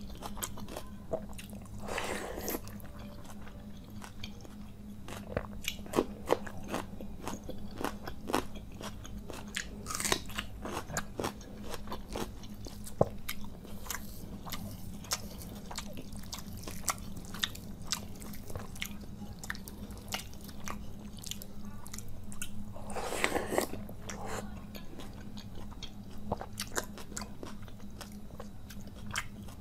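Close-miked eating: a person chewing mouthfuls of water-soaked rice (panta bhat) with fried hilsa fish and mashed potato, with many short wet mouth clicks and smacks. Two longer noisy bursts come about 2 s in and again near 23 s, over a faint steady low hum.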